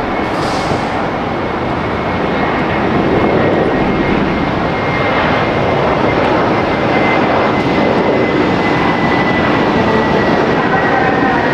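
Jet airliner engines running loud and steady, with a thin high whine that slowly slides down in pitch. The noise swells slightly a few seconds in.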